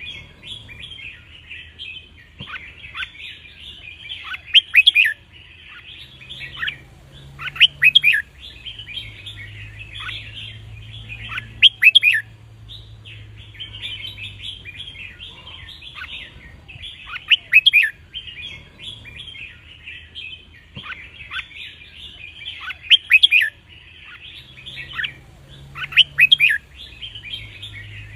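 Red-whiskered bulbuls singing: continuous chattering broken every three to four seconds by a loud, sharp song phrase. This is the kind of song played to teach young caged bulbuls and rouse them to sing.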